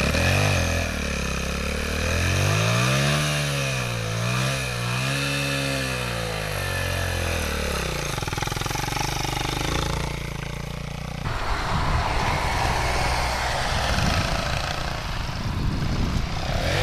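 Blata 125 enduro motorcycle engine revving up and down in repeated throttle blips while the bike is worked up a steep grass slope, then running more evenly. About eleven seconds in the sound changes abruptly to a rougher, noisier engine drone.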